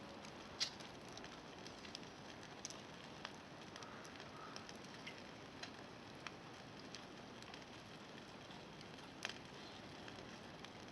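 Wood campfire crackling faintly, with scattered sharp pops; a louder pop comes about half a second in and another near the end.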